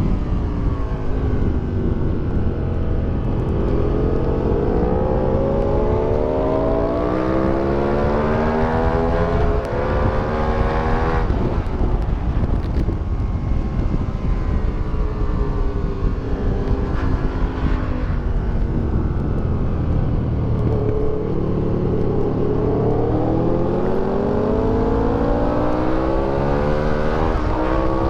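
The V-twin engine of an Aprilia Tuono 1000R with an Akrapovic exhaust, heard on board at full throttle on a race track. Its pitch climbs hard for several seconds, falls off suddenly as the throttle is closed about a third of the way in, then climbs again near the end, over steady wind rush.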